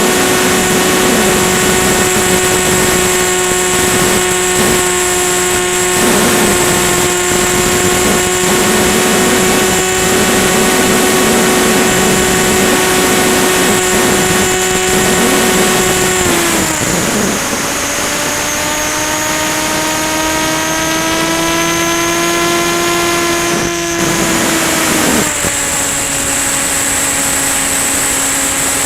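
Electric motor and propeller of a Ranger EX FPV plane in flight: a steady whine with a thin high tone above it and a rush of air. The throttle is cut back about two-thirds of the way through, the pitch then creeps slowly up, and it drops again near the end.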